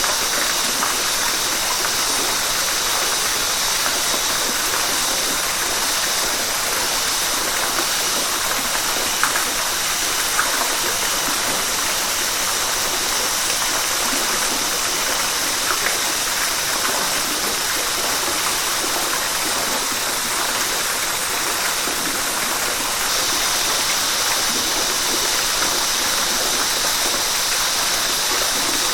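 Steady rush of flowing river water, an even hiss with no breaks, brightest in the upper range, with two small sharp ticks about nine and ten seconds in.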